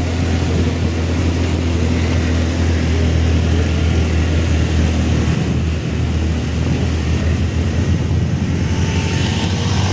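Motor scooter running steadily on the road with wind rushing over the microphone, a continuous low drone under a broad rushing noise.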